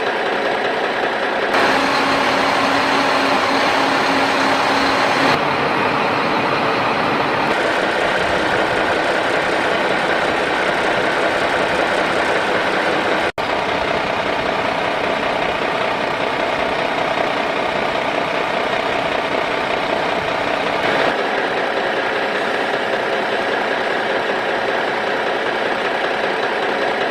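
A motor running steadily with a dense, even hum, changing abruptly a few times as if spliced, with a brief dropout about halfway through.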